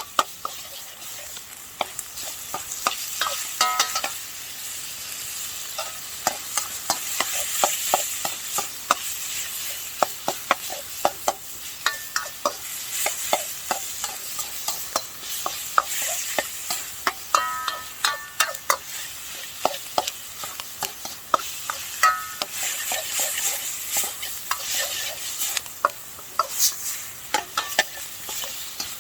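Food stir-fried in a Chinese wok: a cooking utensil repeatedly knocks and scrapes against the pan over a steady sizzle, and the wok rings briefly a few times.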